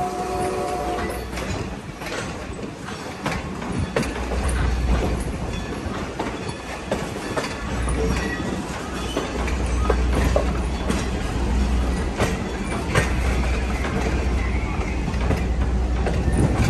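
Railroad passenger car riding along behind a steam locomotive: a steady rolling rumble with irregular clicks and clacks of the wheels on the rails. The locomotive's steam whistle is still sounding at the start and stops about a second in.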